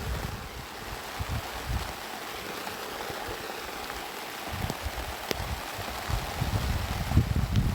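Steady rain falling, a constant hiss, with wind gusting into the microphone in the first second and again near the end.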